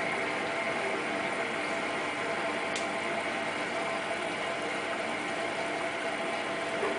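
Hotpoint WT960 washing machine running, a steady mechanical hum with one sharp click about three seconds in.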